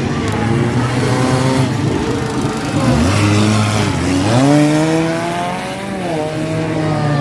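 Engines of several demolition-derby race cars running together on the track, one dropping off and then revving up about four seconds in.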